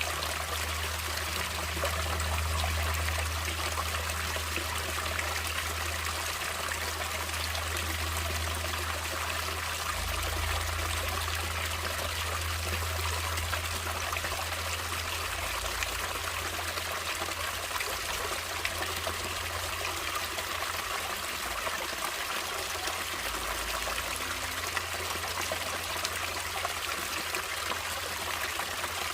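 Stream water running steadily over rocks, an even rushing and trickling with a low rumble underneath.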